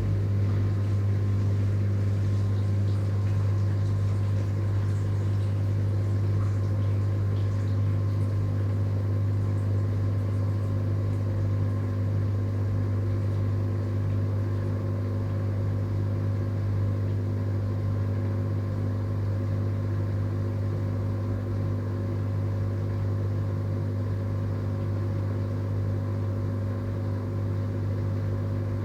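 Dishwasher running: a steady low hum with a faint hiss above it, holding even throughout.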